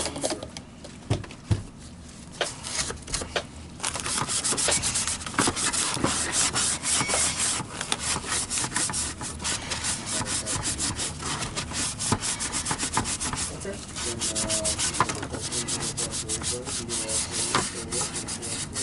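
Rapid hand rubbing and scraping strokes, dense and continuous from about four seconds in, after a few scattered knocks.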